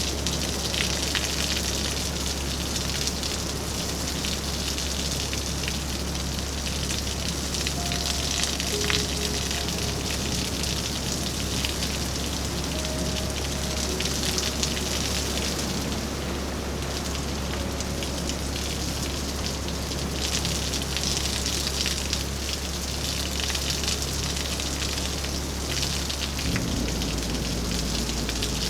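Steady rain falling, with a dense patter of individual drops striking surfaces close by.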